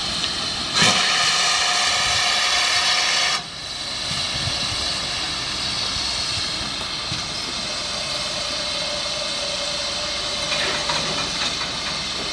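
Steam locomotive hissing steadily, with a loud whistle blast about a second in that lasts some two and a half seconds and cuts off suddenly.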